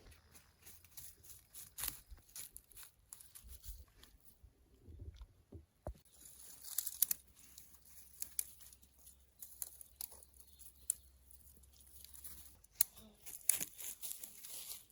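Dry forest litter and twigs being handled by hand: irregular rustling and crackling with sharp snaps, busiest about halfway through and again near the end.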